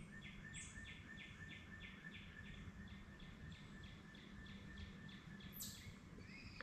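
A faint bird calling, a steady series of repeated notes at about three a second that stops near the end, over a faint low hum.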